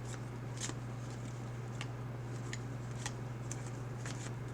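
Trading cards being handled and slid through the hands, a few short crisp ticks and swishes over a steady low hum.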